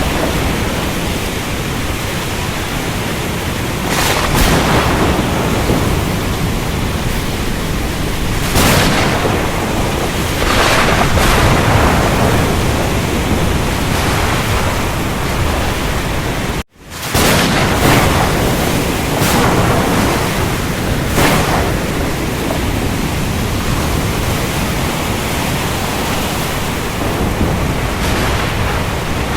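Thunderstorm over the ocean: a steady rush of heavy rain and surf with several sudden cracks of thunder. The sound cuts out for an instant a little past the middle.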